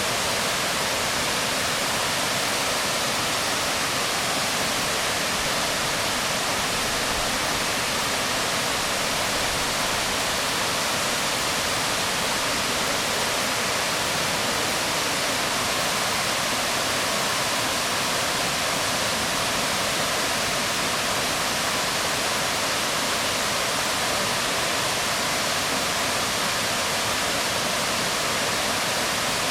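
Waterfall splashing onto rocks: a steady, even rush of falling water with no breaks.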